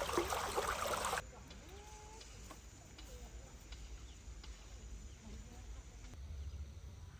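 Loud rushing water-like noise that cuts off suddenly about a second in. After it comes quiet outdoor ambience with a few faint chicken clucks and light clicks.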